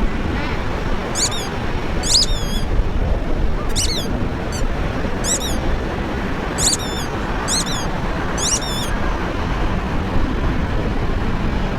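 Birds chirping, a series of short, high, sliding chirps about once a second, over a steady low rumble.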